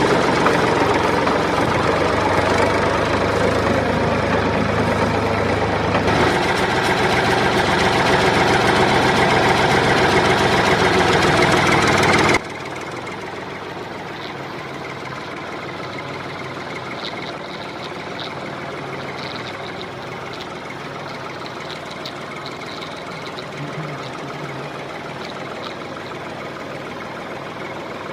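A small motor-driven machine running steadily. About twelve seconds in it drops abruptly to a much quieter steady running sound.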